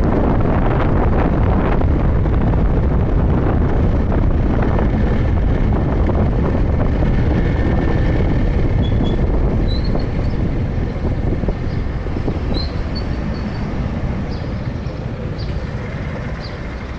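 Motorcycle ride heard from the rider's camera: wind rushing over the microphone with engine and road noise, easing off gradually from about ten seconds in. A few short, faint high chirps come through in the second half.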